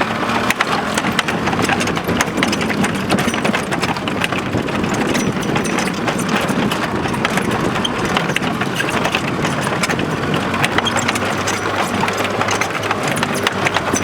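Tractor engine running steadily with a rapid clattering.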